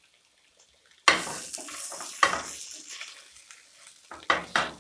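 Chicken pieces and freshly added curry leaves sizzling in a hot nonstick pan as they are stirred with a wooden spatula, the water cooked off and the masala frying dry. The sizzle starts suddenly about a second in and fades, with louder stirring strokes about two seconds in and near the end.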